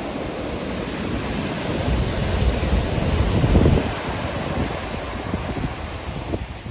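Ocean waves breaking on a beach: the surf swells to a crash about halfway through, then washes back more quietly, with wind rumbling on the microphone.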